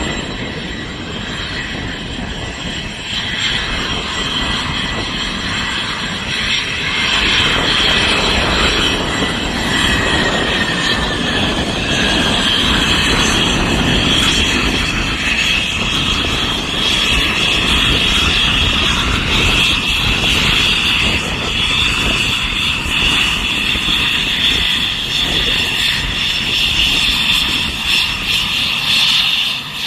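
Twin Pratt & Whitney Canada PW615F turbofans of a Cessna Citation Mustang business jet at high power for takeoff: a steady high-pitched whine over a rumble, growing louder about seven seconds in and then holding.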